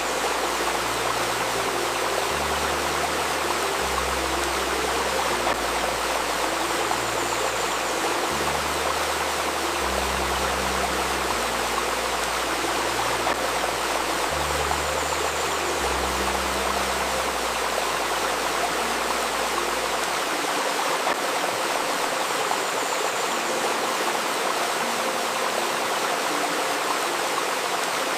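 A river babbling steadily, with a soft, low synthesizer drone underneath that moves to a new note every second or two; the deepest notes drop out about twenty seconds in.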